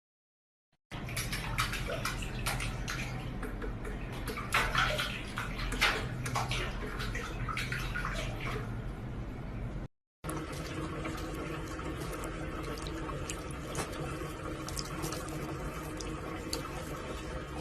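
Water splashing and dripping, with many sharp clicks. It breaks off for a moment about ten seconds in and starts again with a steady hum underneath.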